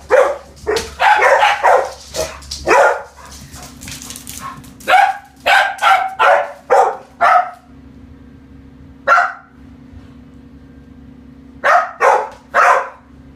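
Pet dogs barking in volleys at a passing garbage truck: a run of barks at the start, another in the middle, a single bark, then a last run near the end, over a steady low hum.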